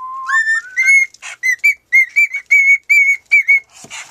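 Cockatiel whistling a made-up song. It opens with a note that steps upward, then runs into a string of short, quick whistled notes, about three a second.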